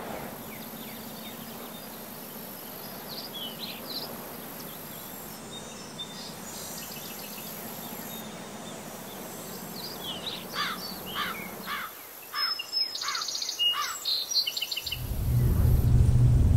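Outdoor ambience with a steady background hiss and birds chirping now and then, then a run of quick, repeated falling chirps in the second half. Near the end a loud low rumble comes in.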